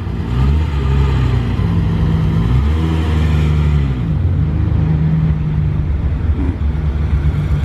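A car engine running at low revs, a deep, steady note whose pitch shifts slightly a few times.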